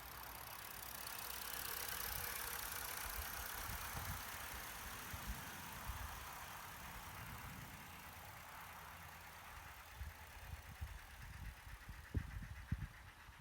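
Live-steam model locomotive hissing steam steadily, swelling over the first few seconds and then fading, with wind buffeting the microphone in low thumps, strongest near the end.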